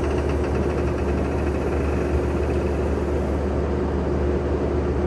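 Skid steer's diesel engine running steadily at a constant speed, a low, even hum.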